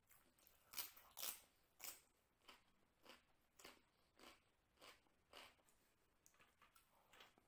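A person chewing a crunchy raw salad slice, with regular crunches about every half second or so. The first few bites are the loudest and the crunches grow fainter after that.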